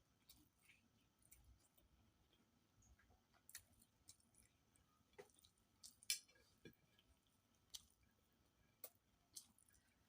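Quiet, wet mouth clicks and smacks of someone chewing food, scattered irregularly, the loudest about six seconds in.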